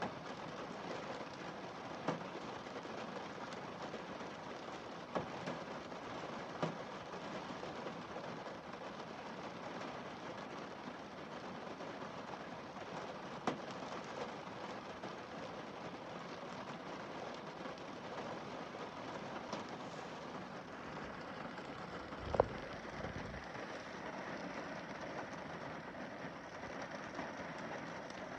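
Steady rain pattering on a car windscreen, with scattered louder drops ticking on the glass and one sharper knock with a brief low rumble about two-thirds of the way through.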